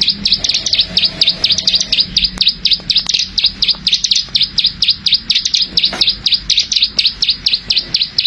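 Ciblek sawah, a small prinia, calling in a fast, unbroken run of sharp repeated clicking notes, about six or seven a second. This is the busy 'klik-klik' calling that keepers prize in a bird in full voice.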